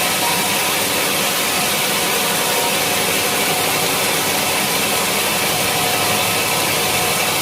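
Sawmill machinery running steadily: a constant, even machine noise with a faint hum and no change in pace.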